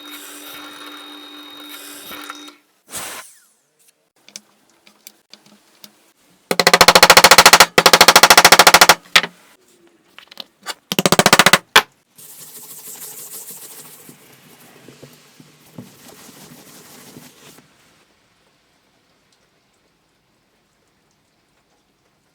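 A woodworking power tool cutting wood, heard as two loud bursts of rapid, evenly spaced chattering strokes a couple of seconds apart, with softer working noise after them and silence over the last few seconds.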